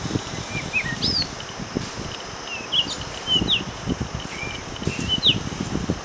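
Small birds calling in short whistled notes that slide up or down, a few each second, over a low rustling noise.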